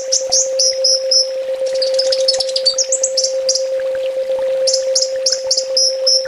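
Kolibri ninja sunbird song: rapid phrases of high, thin chips and trills. A fast run of notes comes first, then a jumbled twittering phrase, and a pause, then another fast run ending in short whistles. A steady low hum sits underneath throughout.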